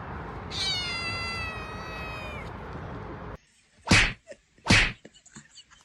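A cat's long drawn-out meow of about two seconds, its pitch sagging slightly toward the end. It is followed by two short, sharp noisy bursts a little under a second apart, the loudest sounds here, then a few faint clicks.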